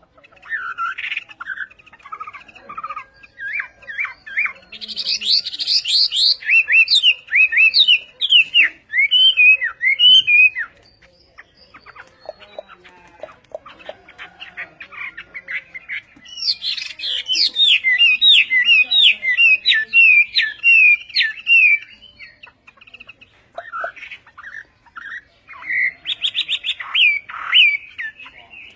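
Hwamei singing: two long bouts of loud, quick, varied whistled phrases, each about six seconds, with shorter snatches of song between and near the end.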